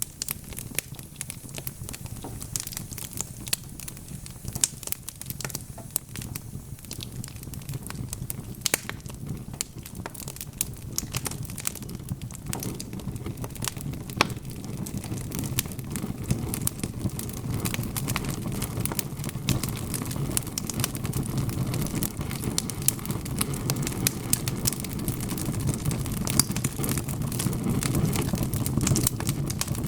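Wood fire crackling and popping: many sharp snaps over a low steady rush of flames, the rush growing somewhat fuller partway through.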